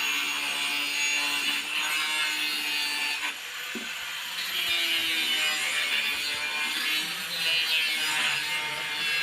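Steady rasping of a hand tool working a 4-inch drain pipe, easing off briefly about three and a half seconds in.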